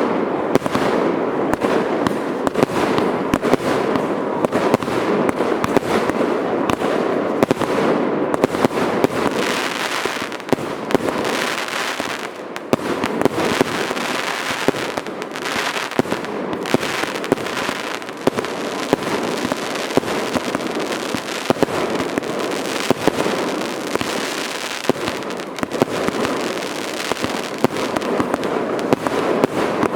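Fireworks going off in a dense, continuous barrage: many sharp bangs and pops in quick succession over a steady crackling rumble.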